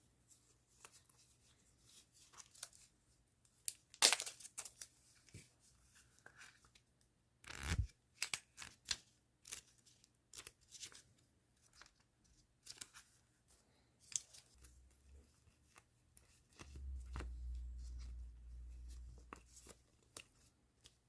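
Hands unpacking stationery: scattered rustles, crinkles and sharp tearing and snipping sounds of paper and plastic packaging on a tabletop, the loudest about four and seven and a half seconds in. A low, dull rumble runs for a couple of seconds near the end.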